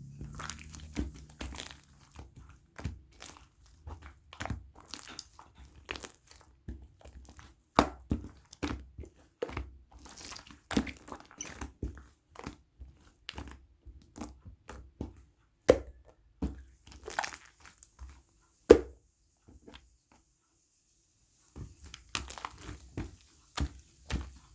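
Irregular crunching and crinkling: many short, sharp clicks and crackles at uneven intervals, broken by about two seconds of silence a few seconds before the end.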